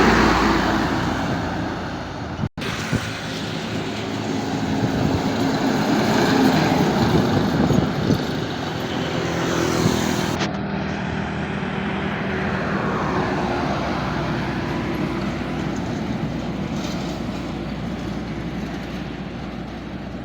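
Road traffic: heavy vehicle engines running and passing, with a brief dropout about two and a half seconds in.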